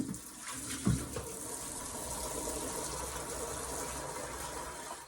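Water tap running into a container, filling it with fresh water, with a knock about a second in. The flow is steady and stops sharply at the end.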